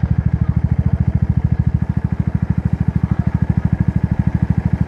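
Motorbike engine running steadily, with a rapid even pulsing of its firing strokes.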